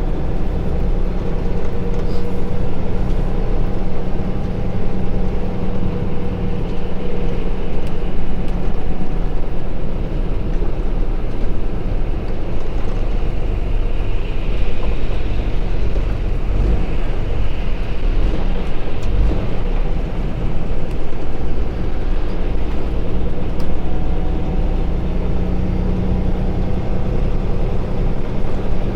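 Kenworth T680 semi-truck driving without a trailer: a steady diesel engine drone under road and wind noise.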